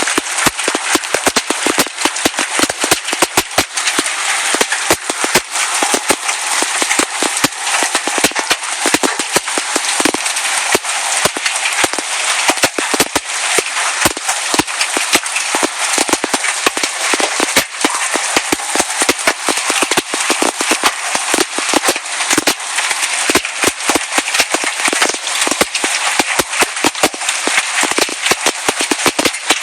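Hailstones pelting down in a dense, irregular barrage of sharp impacts over a steady roar of falling hail and rain.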